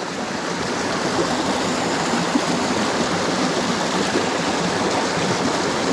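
Mountain stream water rushing steadily over rocks, an even hiss.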